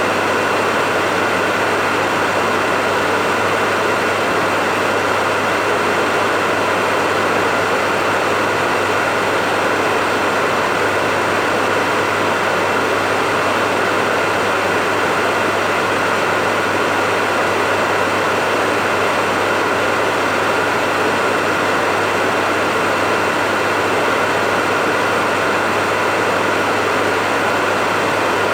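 Hair dryer running steadily: a constant rush of air with a low motor hum and a thin high tone, unchanging throughout.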